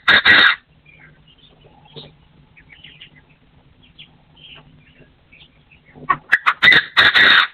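Partridge calling: a loud run of quick repeated notes right at the start, then a longer loud series from about six seconds in, with faint small-bird chirps between them.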